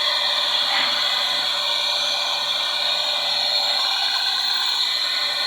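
Toyota 3RZ 2.7-litre four-cylinder engine of a 2003 Hilux idling steadily with a continuous whirring hum, heard close up under the bonnet while its spark plug leads are being tested for a misfire.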